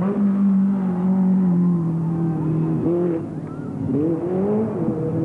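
Off-road race car engine running hard at steady revs for about three seconds, then the revs dropping and climbing again several times as the car is driven around the course.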